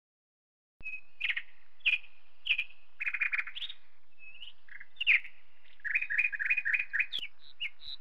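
Songbirds chirping: short, repeated high notes starting about a second in, with a quicker run of chirps in the second half.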